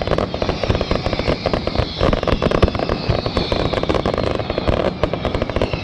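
Fireworks display: a dense, continuous barrage of rapid bangs and crackling, with faint whistles that fall in pitch.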